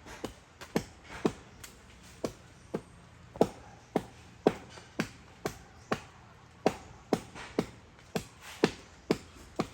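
A blade chopping into tree wood in repeated sharp knocks, about two a second, some much louder than others.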